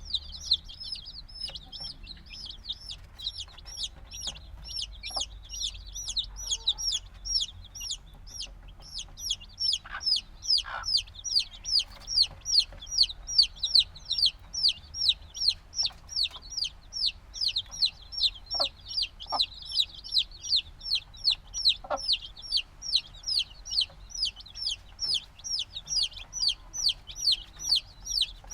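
A brood of black chicks a few days old peeping without pause: high, downward-sliding peeps, about three a second, with a few faint knocks in between. The keeper puts their noisiness down to their still needing the mother hen's warmth.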